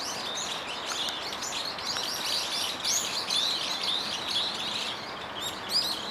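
Many small birds chirping and twittering in a dense, overlapping chorus of quick high notes, over steady background noise.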